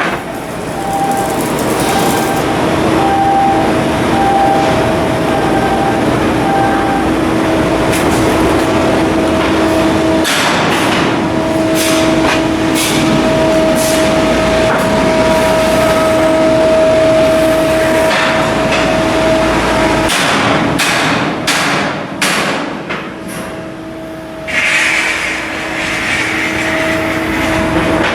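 Shipyard steelwork noise: a steady machine hum under repeated sharp metal clanks and knocks, heaviest in the middle of the stretch.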